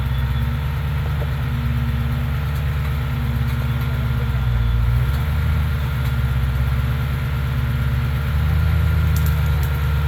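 Off-road truck's engine running at low revs while it crawls slowly over an obstacle. The revs pick up slightly about halfway through and again near the end.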